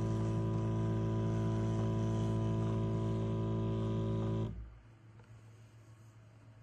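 De'Longhi Rivelia bean-to-cup espresso machine running with a loud, steady electric hum, then cutting off suddenly about four and a half seconds in.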